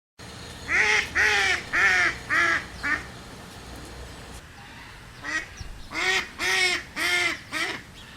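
A duck quacking in two runs of about five quacks each, the second run starting about five seconds in.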